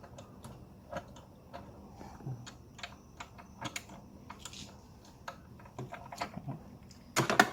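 Scattered small clicks and taps of parts and tools being handled in an engine bay, with a louder, brief clatter near the end.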